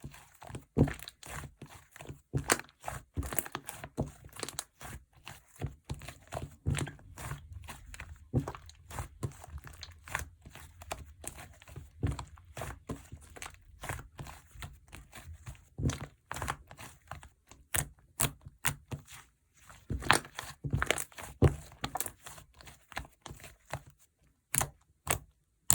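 Slime being squished, folded and stretched by hand, giving a quick, irregular string of wet pops and crackling clicks as trapped air bursts.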